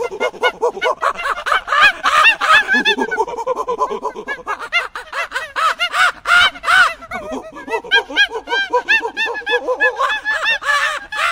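A flock of birds calling all together: many short, quick calls that rise and fall in pitch, overlapping without a break.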